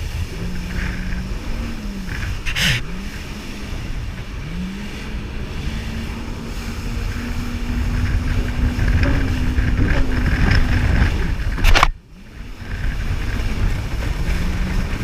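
Jet ski engine running, its pitch dipping and rising a few times as the throttle is eased and opened again, over wind and water noise. A sharp bang near the end, after which the sound briefly drops away.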